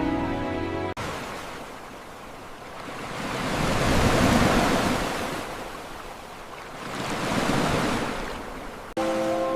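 Ocean waves surging and washing back, two swells a few seconds apart. Music plays for the first second and returns near the end, each time starting and stopping abruptly.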